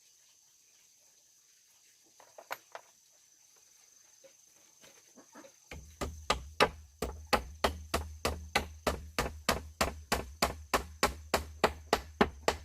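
A hand tool striking wood in a fast, even run of blows, about three to four a second, beginning a little under six seconds in after a few light knocks.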